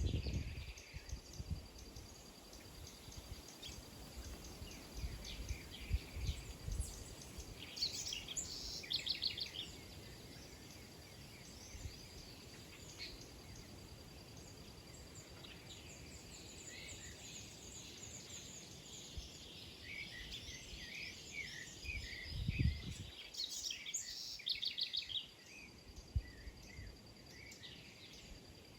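Small birds chirping and twittering in short, rapid bursts every few seconds, over a faint steady high tone. There is a low thump about 22 seconds in.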